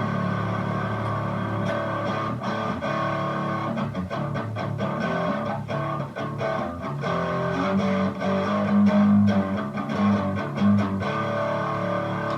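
Strat-style electric guitar played through a Boss DS-1 distortion pedal with the distortion all the way up, into a Hotone Siva Boogie mini amp head and Vox BC108 cabinet. It plays heavily distorted riffs and held chords, and stops suddenly at the very end.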